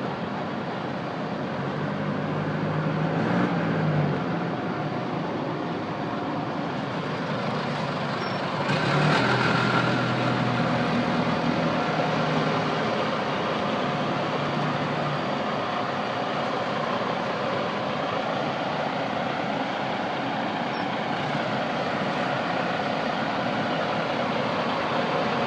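Detroit Diesel DD15 inline-six diesel engine of a Freightliner Cascadia truck running, its pitch rising and falling twice as the revs go up and come back down.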